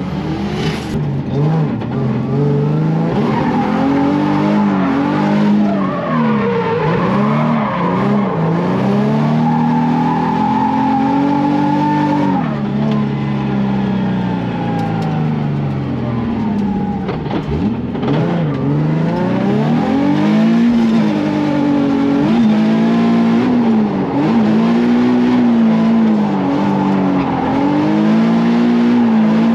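Nissan 350Z drift car's V6 engine revving up and down again and again through a drift run, with tyres squealing.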